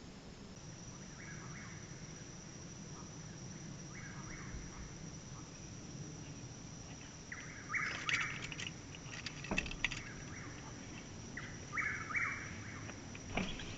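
Night insects calling: a steady high-pitched whine, with short buzzy trills repeating every few seconds. A few sharp clicks or knocks come in the second half.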